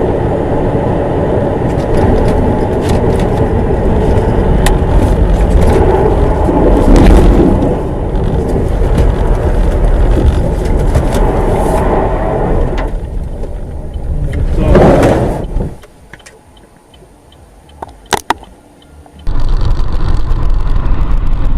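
A car on the move: steady road and engine noise, with a brief loud swell about fifteen seconds in. It then drops much quieter for a few seconds, with a few clicks, before loud road noise starts again.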